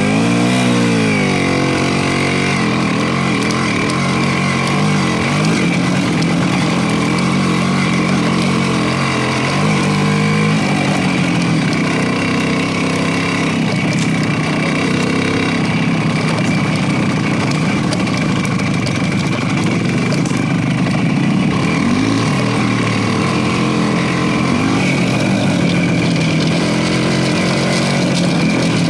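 Motorcycle engine running while riding, its pitch rising and falling as the throttle is opened and eased, most clearly near the start and again about ten seconds in.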